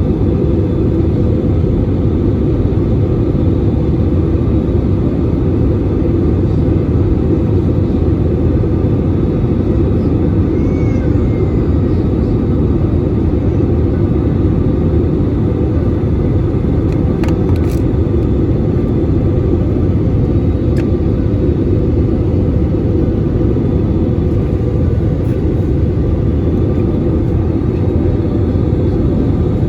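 Passenger airliner cabin noise in flight: a steady, deep rumble of engines and airflow heard from inside the plane, with a few faint ticks.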